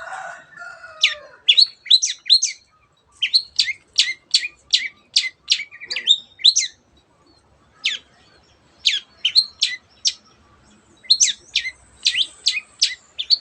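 Long-tailed shrike (cendet) calling in its agitated 'teot teot' style: runs of sharp, high, downward-slurred notes, several a second, broken by short pauses.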